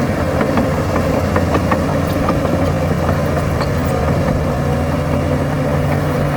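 Heavy diesel engine of earthmoving machinery running steadily, with scattered light clanks over it.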